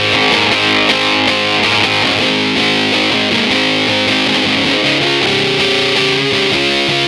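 Electric guitar played through a fuzz pedal with its gain set at about nine o'clock: thick, distorted sustained notes and chords, moving to a new held note about five seconds in.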